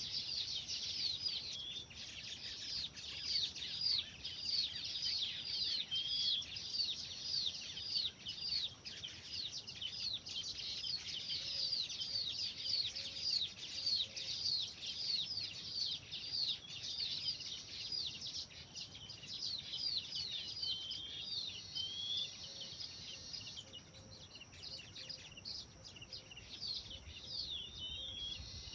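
Small birds chirping: a dense, fast run of short, high-pitched chirps that each fall in pitch, thinning out to scattered calls near the end.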